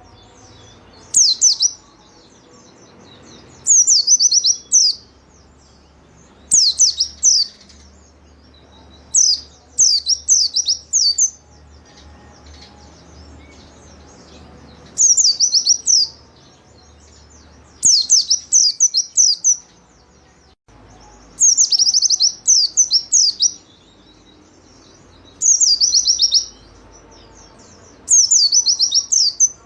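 White-eye (pleci) singing: about ten short bursts of rapid, high, falling chirps, each lasting about a second and coming every two to three seconds. A faint low hum sits underneath.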